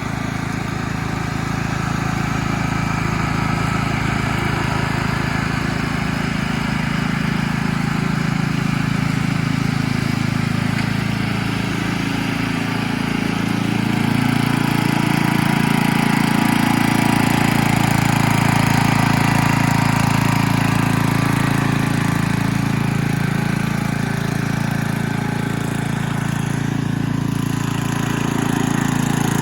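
1985 Westwood W10 ride-on mower's engine running continuously as the mower is driven, its pitch dipping and rising a little from about twelve seconds in.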